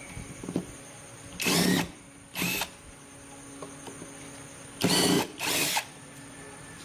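Power drill run in four short bursts, coming in two pairs.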